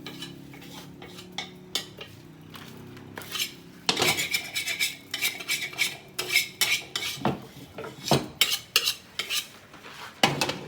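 Metal spatula clanging and scraping against a wok while fried rice is tossed, a few scattered knocks at first, then a quick run of strikes from about four seconds in.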